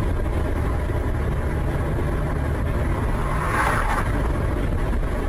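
Car driving, heard from inside: a steady low engine and road rumble with tyre noise, and a short rise in hiss a little past the middle.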